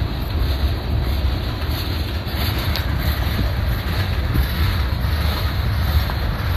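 Freight train cars rolling past on the rails with a steady rumble, wind buffeting the microphone.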